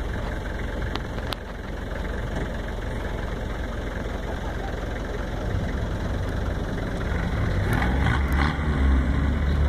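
Off-road truck engine idling steadily, its low running note growing louder over the last couple of seconds.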